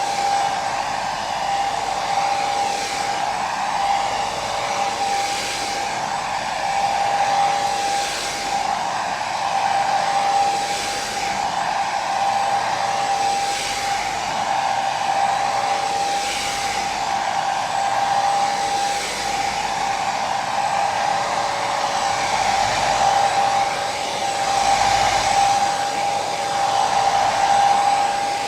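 Hair dryer running continuously: a steady rush of air with a constant hum, swelling gently every two to three seconds.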